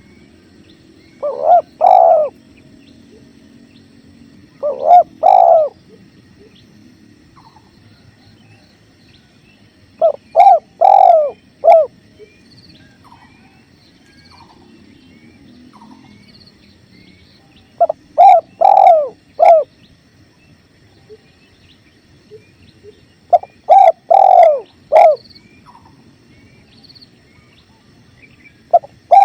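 Spotted dove cooing a phrase of three or four notes, about every five to seven seconds. Between the phrases there is a faint steady rush of flowing river water and a few faint high chirps of small birds.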